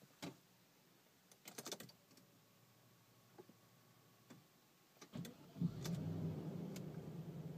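A few light clicks and a short jingling rattle, then about five seconds in the Audi S6 C5's 4.2-litre V8 cranks briefly, catches with a loud burst and settles into a steady idle. The engine has a misfire.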